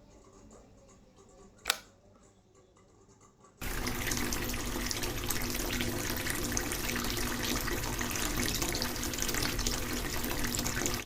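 Water from a small homemade water pump running steadily. The rush starts suddenly about three and a half seconds in, after a single click just under two seconds in.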